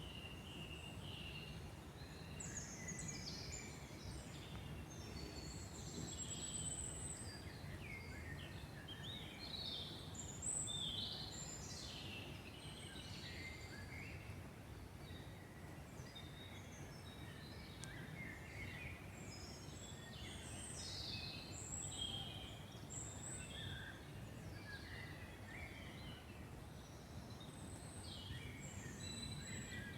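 Several forest birds singing and calling at once: overlapping high chirps, trills and whistled phrases, with no pause. Underneath is a low steady rumble.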